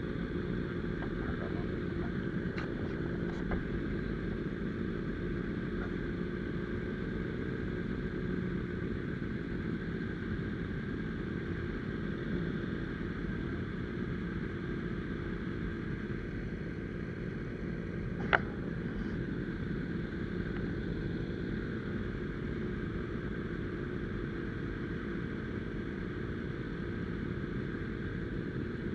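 Steady running noise of a moving vehicle, a low rumble that holds even throughout, with a single sharp click about two-thirds of the way through.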